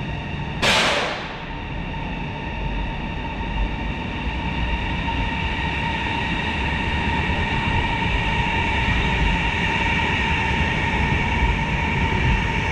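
High-speed electric multiple-unit train running through the station along the platform: a short sharp whoosh about a second in, then a steady rumble with a high whine that grows a little louder toward the end.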